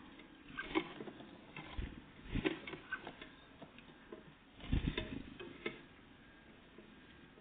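Tits pecking and scrabbling at a bird feeder: three clusters of light taps and clicks, about a second, two and a half seconds and five seconds in.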